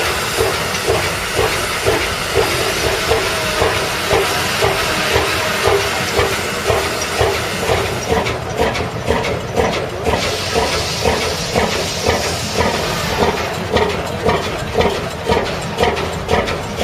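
A large engine running with an even beat of about two pulses a second over a steady hiss.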